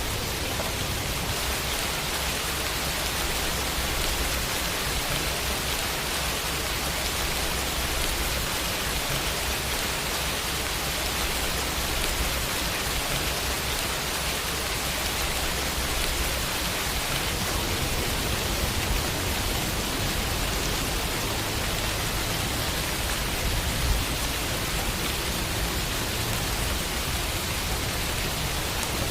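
Steady summer rain falling on a window pane, an even hiss of drops with no pauses.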